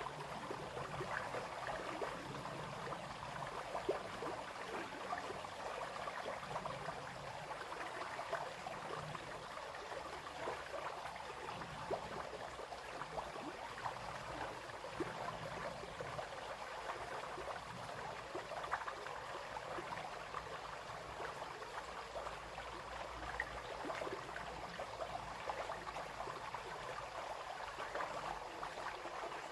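A small brook flowing and babbling steadily, with continuous splashing and trickling over stones.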